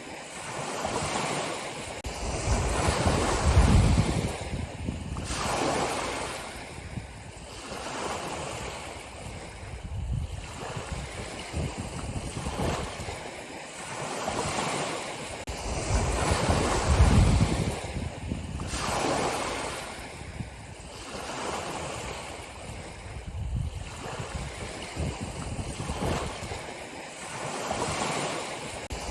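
Ocean surf: waves breaking and washing in, swelling and ebbing every few seconds, with the biggest surges about 4 seconds in and again around 17 seconds.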